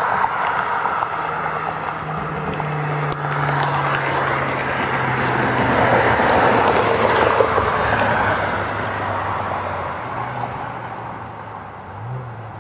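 A car driving by at a distance. Its noise builds to a peak about halfway through and then fades away. It is mostly a broad rushing noise over a steady low engine hum.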